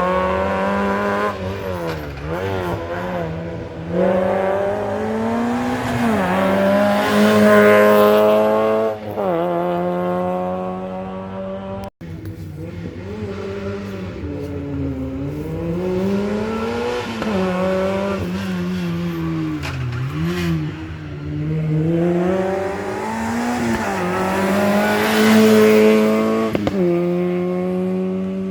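Rally car engines driven hard, two cars in turn: the engine pitch repeatedly climbs and drops through gear changes and lifts off the throttle, each car loudest as it goes by. A sudden break about twelve seconds in separates the first car from the second.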